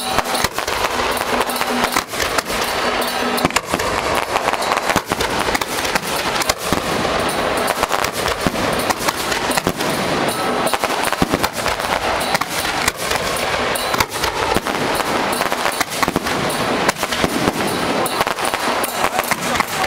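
Firecrackers going off from a festival cart: a dense, unbroken crackle of rapid bangs.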